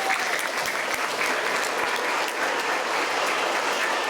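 Audience of elementary school children applauding and cheering.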